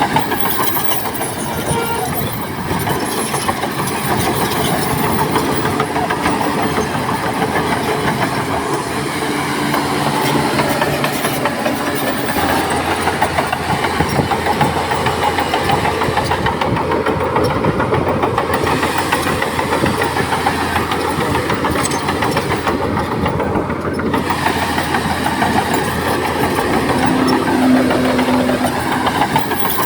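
Heavy diesel earthmoving machinery running steadily: a deep engine drone under a rough, noisy mechanical clatter.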